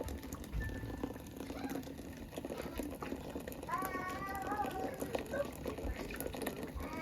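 Background voices with some music, and a high-pitched child's voice about four seconds in.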